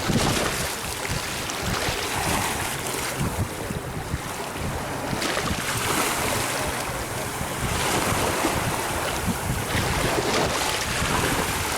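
Wind buffeting the microphone: a continuous rough rushing noise with a gusty low rumble that rises and falls.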